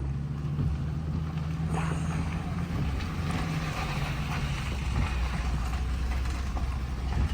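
A motor vehicle running steadily on the move: a constant low engine drone with road and wind noise.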